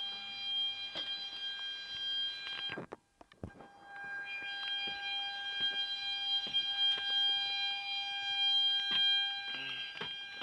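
Steady high-pitched whine from equipment aboard a parked C-130, with scattered clicks and knocks. The whine cuts out for about a second roughly three seconds in, then returns.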